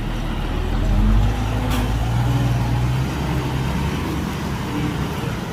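Heavy diesel engine of an earthmoving machine running under load, swelling in level about a second in, with one sharp click near two seconds in.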